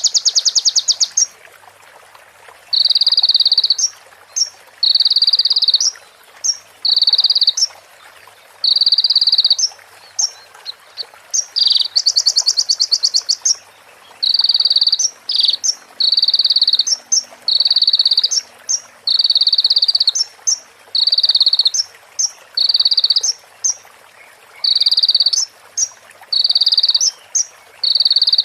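Recorded songbird calls: short buzzy rattling trills repeated about once a second, with brief high chirps between them. A longer, higher trill comes about twelve seconds in.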